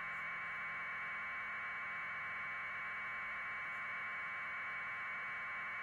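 Steady hiss of static, a mid-pitched band of noise with a faint low hum under it, unchanging throughout: the background noise of the live broadcast feed.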